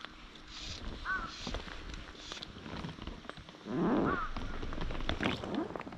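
Birds calling: a short call repeating about every three seconds over quicker high chirps, with a louder, lower call about four seconds in.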